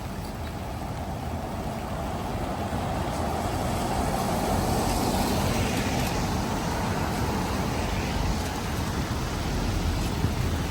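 A vehicle going by on a rain-soaked road: wet tyre hiss and engine noise swell over several seconds, then ease off near the end, against a steady low rumble.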